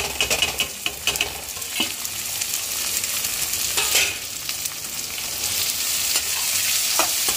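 Ginger-garlic paste sizzling in hot oil over a high flame, with a spoon scraping and knocking against the pan as it is stirred and the onion is mixed in. The sizzle grows steadily louder.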